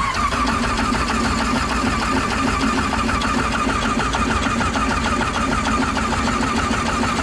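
An old combine's engine cranking on its starter for about seven seconds with a fast, even rhythm, turning over without catching, then cutting off suddenly as the starter is released. It is a cold, worn engine, described as "a little tired", that doesn't want to start.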